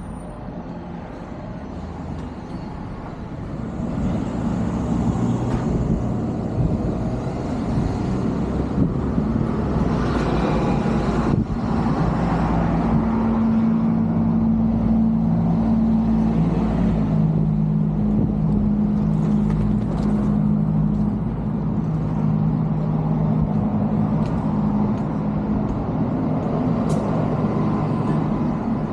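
Road traffic with a heavy vehicle close by, its engine running with a steady low drone. The noise swells a few seconds in and holds steady for most of the stretch.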